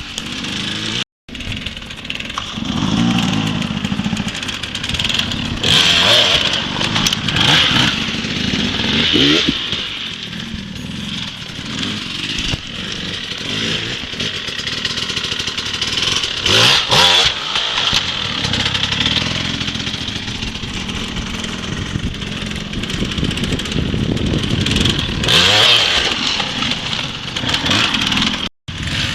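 Dirt bike engine revving, the throttle opened hard in bursts several times with the pitch rising and falling. The sound cuts out briefly about a second in and again near the end.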